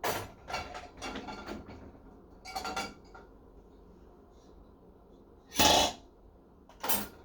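Dishes and cutlery clattering as they are handled and loaded into a dishwasher, in several separate bouts, the loudest about five and a half seconds in.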